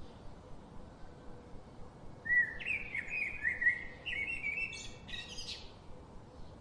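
A songbird singing one quick warbling phrase of many short notes, lasting about three seconds and starting about two seconds in, over a faint steady background hiss.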